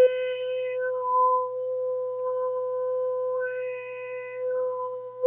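A woman toning: one long held note at a steady pitch, its upper overtones brightening briefly at the start and again about three and a half seconds in as the vowel shape changes, in the manner of harmonic overtone singing.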